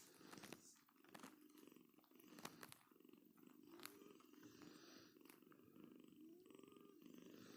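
Domestic cat purring softly and steadily, with a few faint clicks scattered through it.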